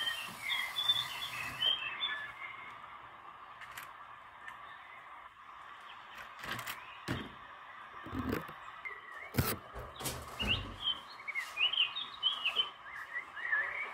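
Small birds chirping and twittering in two spells, at the start and again through the second half, with a few sharp knocks scattered in the quieter middle.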